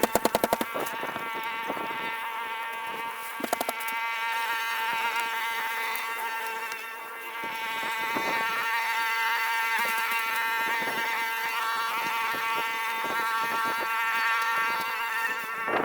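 A small motor running with a steady high-pitched buzz, raised in pitch by the sped-up playback. A burst of rapid clicking comes at the start and again about three and a half seconds in.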